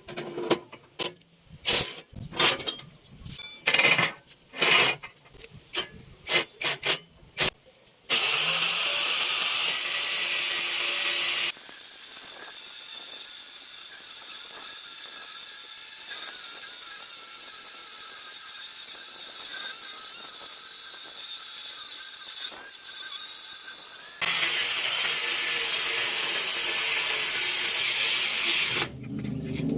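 Metal knocks and clanks for the first several seconds, then an angle grinder running with a loud steady hiss. It drops to a quieter steady run for about twelve seconds, then returns to the loud hiss and stops near the end.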